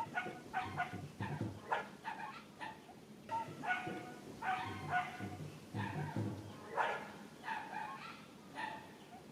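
Baby monkey crying in short, repeated high-pitched calls, about two a second: distress at being refused milk by its mother.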